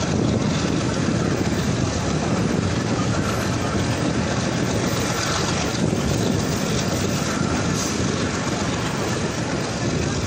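Passenger train running steadily, heard from aboard: a continuous low rumble of wheels on the track with a hiss of rushing air.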